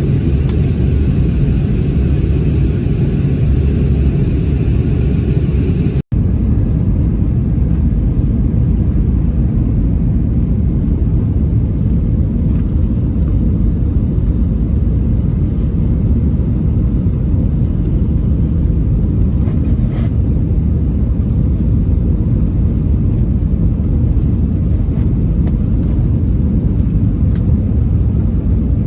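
Steady low rumble of airliner cabin noise aboard an Airbus A321, engines and airflow, with a brief break about six seconds in and a few faint clicks later.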